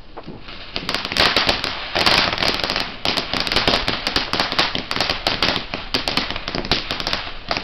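Ground firework going off: a fast, irregular stream of sharp crackling pops over a continuous hiss, starting about a second in and running on.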